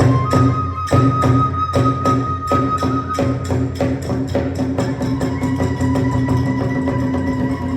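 Hiroshima kagura hayashi: drum and hand-cymbal beats quickening from about two a second to four or five a second, with a high flute note held over them.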